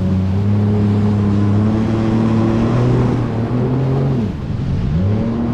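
Jet ski engine running steadily at cruising throttle with water and wind rushing. About four seconds in the revs drop briefly and then pick back up.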